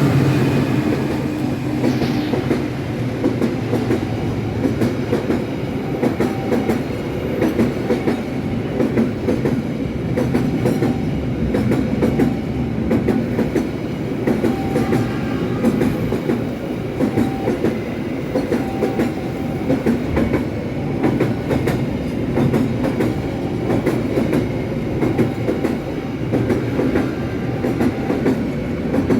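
Freight train rolling past, its wagon wheels clacking over the rail joints in a steady run of clicks over a continuous rumble.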